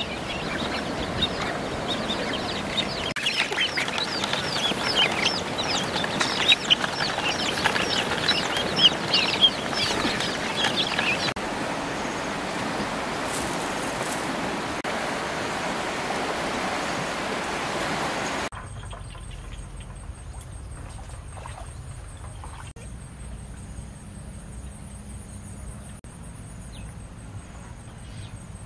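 Birds chirping and peeping rapidly in short high notes over a steady rustling background. About eleven seconds in the chirps stop and a steadier hiss goes on. At about eighteen seconds the sound drops suddenly to a much quieter background with a faint high steady whine.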